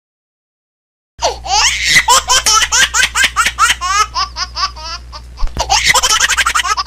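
A baby laughing: a rapid run of short, high giggles that starts suddenly about a second in, turning into breathier squeals near the end.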